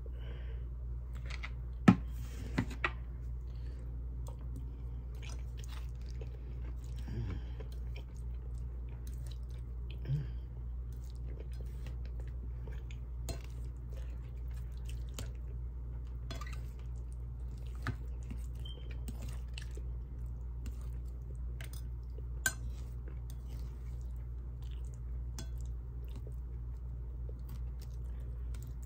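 Close-up chewing and mouth sounds of someone eating beef and broccoli with rice, with many small wet clicks and a few sharper clicks and taps, the loudest about two seconds in. A steady low hum runs underneath.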